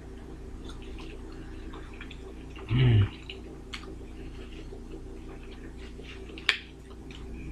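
People chewing fries and burger, with small wet mouth clicks over a steady low hum. A man makes a short low voiced sound about three seconds in, and there is a sharp click near the end.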